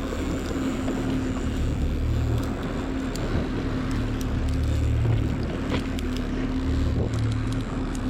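Motorboat engine running steadily with a low, swelling rumble and a held hum, under a wash of wind and water noise.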